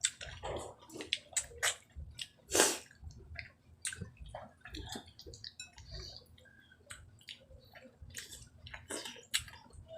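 Eating sounds: wet chewing and lip smacks, irregular clicks of varying loudness, the loudest about two and a half seconds in.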